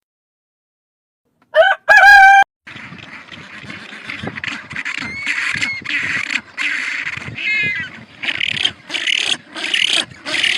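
Chickens: a rooster crows once, loud and short in two parts, about a second and a half in. Chickens then keep up steady clucking and squawking.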